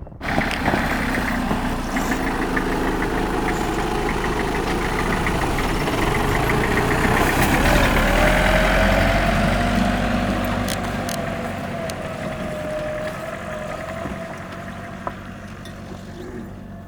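A motor vehicle's engine running steadily, growing louder to a peak about halfway and then fading, with a thin wavering tone over it in the second half.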